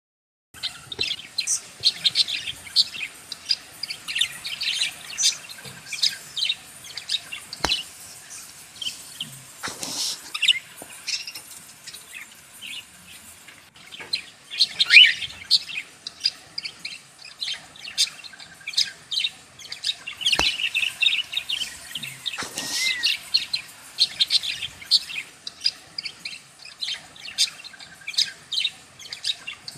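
Lovebirds chirping and chattering: a steady stream of short, high chirps in quick succession, with a couple of sharp clicks.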